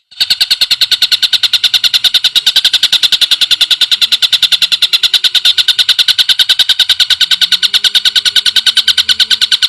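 Recorded greater green leafbird (cucak ijo) call: a loud, rapid, even trill of high notes at about ten a second, starting abruptly just after the start.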